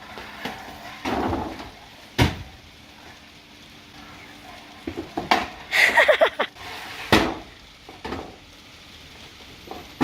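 Flatland scooter riding on a hard indoor floor: the wheels roll with a steady hiss, and there is a sharp knock about two seconds in and another about seven seconds in, as the scooter hits the floor. A short shout comes around six seconds in.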